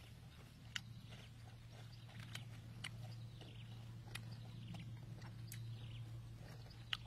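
Faint sounds of people eating by hand: scattered sharp mouth clicks and smacks of chewing, about one a second, over a steady low hum.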